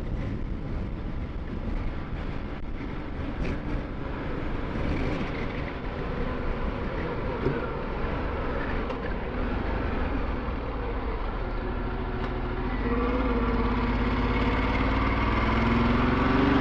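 Ducati Multistrada 1260 S's V-twin engine running with the bike under way, amid a steady rush of wind and road noise. Near the end the engine note rises steadily as the bike accelerates.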